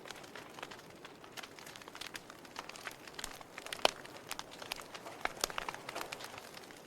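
Wood fire in a fireplace: logs crackling and popping at irregular intervals over a soft steady hiss of the flames, with one sharper pop about four seconds in.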